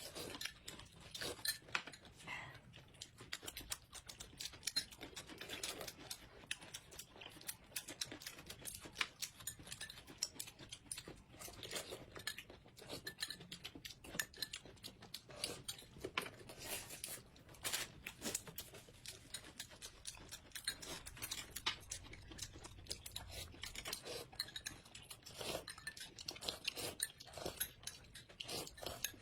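Close-up eating sounds: irregular chewing and crunching mixed with clicks and clinks of cutlery and dishes.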